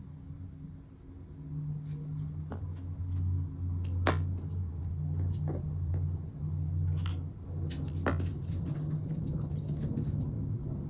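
A few sharp, irregular clicks and taps of small tools and metal accordion reed plates handled on a workbench during leather-valve replacement, over a steady low hum.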